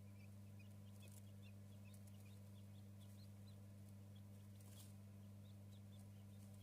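Newborn quail chicks peeping faintly: many short, high cheeps scattered irregularly, over a steady low electrical hum.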